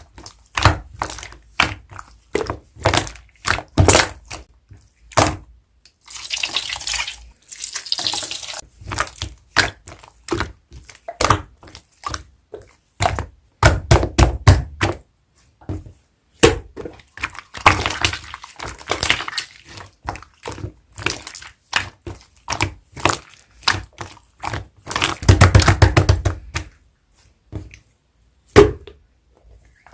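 Clear transparent slime being squeezed and poked by hand: a constant string of short wet clicks and pops, with three longer crackling squelches spread through it.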